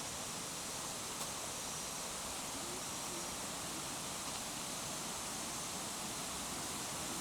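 Steady hiss of rushing water from a waterfall or stream, even and unbroken, with a faint tick about a second in.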